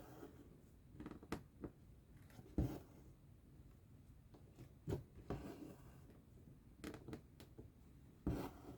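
Hand cross-stitching: a needle pushed through stiff fabric and the thread drawn after it. The sound is a scatter of soft clicks and brief rasping pulls at irregular intervals.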